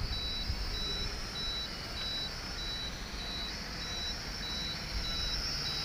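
Sky Viper V950 HD quadcopter's propellers and motors whining in flight, with wind buffeting the microphone. A short high beep repeats steadily about one and a half times a second throughout.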